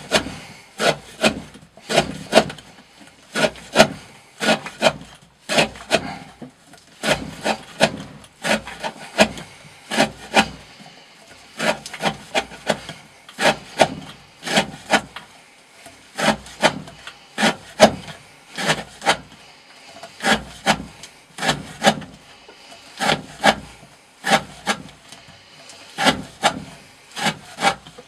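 A Green Thorn Hati D2 knife slicing through thick rope again and again, each cut a short rasping stroke that ends in a knock, at about one cut a second with some cuts coming in quick pairs: a rope-cutting edge-retention test.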